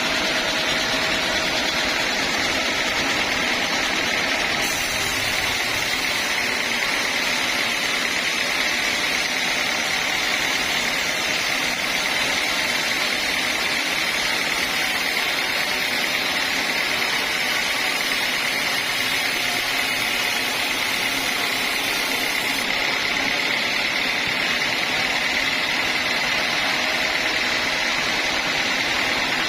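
Sawmill machinery running steadily with a constant high whine, most likely the homemade band sawmill working on a teak log.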